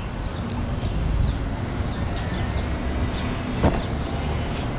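Steady low rumble of wind and street traffic on a bicycle rider's action-camera microphone, with a few faint high chirps and one sharp click about three and a half seconds in.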